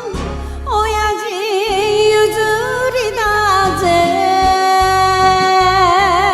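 A woman singing an enka song over a karaoke backing track, her voice wavering in heavy vibrato, with a long held note through the second half.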